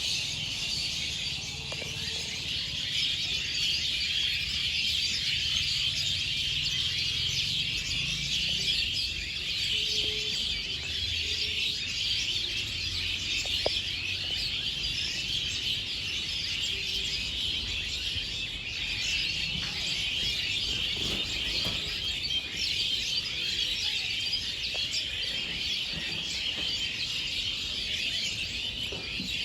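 A dense chorus of many small birds chirping and twittering at once, steady and unbroken, the calls overlapping into a continuous high-pitched chatter.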